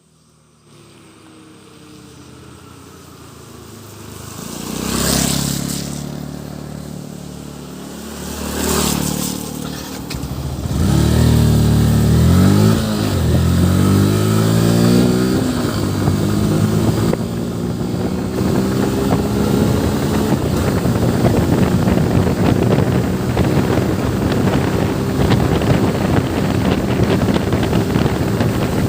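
Yamaha FZ V3 motorcycle's 149cc single-cylinder engine. It fades in low, then from about eleven seconds in accelerates with its pitch climbing and dropping through gear changes. It then runs steadily at riding speed with wind noise on the microphone.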